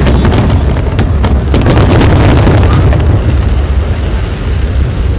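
Large aerial firework shells bursting overhead in rapid succession: a continuous loud rumble of booms with sharp cracks and crackle, the cracks densest over the first three seconds.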